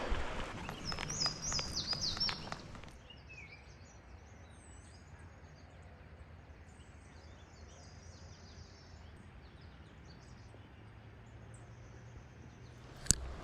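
Songbirds calling: a repeated high chirping phrase over the first couple of seconds, mixed with a few sharp handling clicks, then fainter scattered chirps over a low steady hiss. One sharp click comes near the end.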